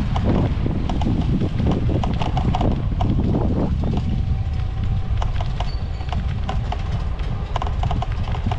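Wind buffeting the microphone on a moving bicycle, a heavy steady rumble, with frequent light clicks and rattles from the bike jolting along the path.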